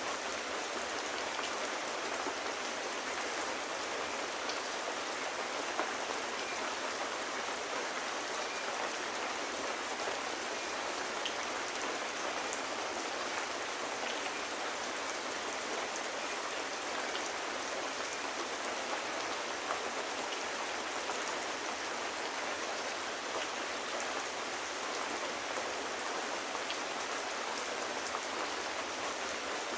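Steady rain falling on surfaces, an even hiss with scattered faint drop ticks.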